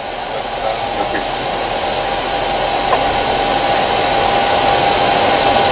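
Steady rushing noise of airflow and ventilation in an airliner cockpit in flight, with a steady whine running through it.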